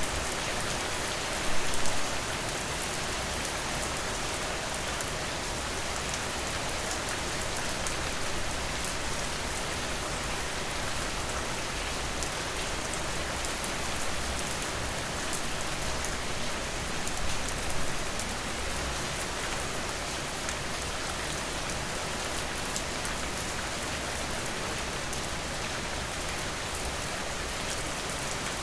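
Steady rain falling, with many small individual drop hits through it. A brief louder swell comes about two seconds in and a smaller one near the end of the first half.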